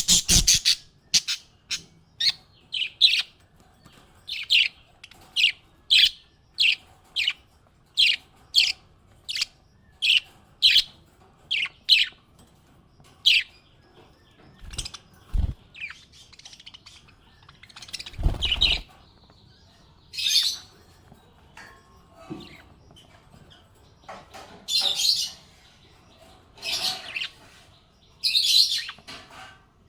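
Small pet parrots chirping: a steady run of short, high chirps, about three every two seconds, for the first dozen seconds, then longer, scratchier calls at uneven intervals. A couple of dull thumps come around the middle.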